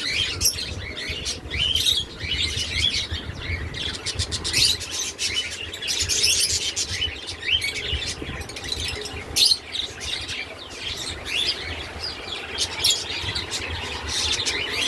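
Many small caged birds chirping without pause, their short high calls overlapping.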